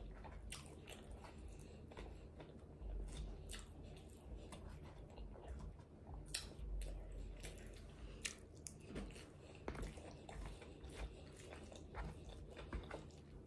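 Faint close-miked chewing and mouth sounds of someone eating a Chipotle burrito bowl, with scattered light clicks and scrapes of a fork in the bowl.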